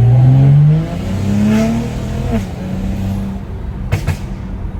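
Straight-piped BMW N55 turbocharged inline-six accelerating hard. Its pitch climbs, drops as it shifts up just under a second in, and climbs again. It then falls away as the throttle lifts and settles into a steady cruise. Two sharp cracks come about four seconds in.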